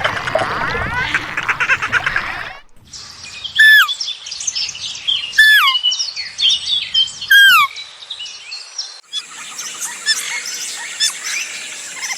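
Birds calling in three cut-together clips: first a dense mix of many chirps, then one loud down-slurred call repeated three times about two seconds apart among other chirps, then a busier chorus of chirps over a steady high hiss.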